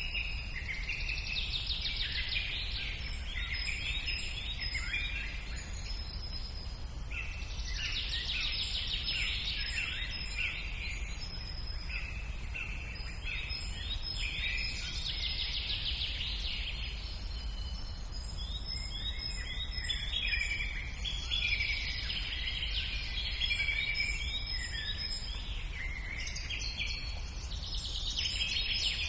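Wild birds singing: bursts of fast, trilling song phrases recur every few seconds, over a steady low rumble.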